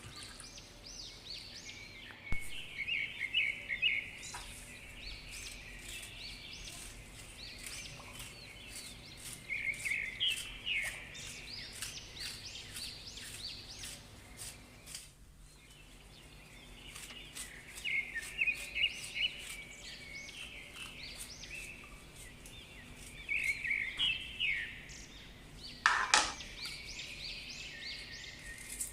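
Birds chirping and calling in repeated short phrases, with scattered light clicks and one louder knock near the end.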